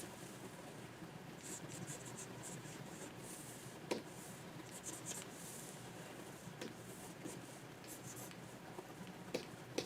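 Stylus nib scratching across a Wacom pen display in a run of short, quick strokes, with a few sharp taps of the pen on the screen, the loudest about four seconds in and two more near the end.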